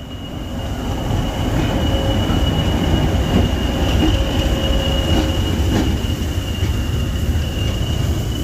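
Heritage passenger train running along the track: a steady rumble with a thin, steady high-pitched whine over it.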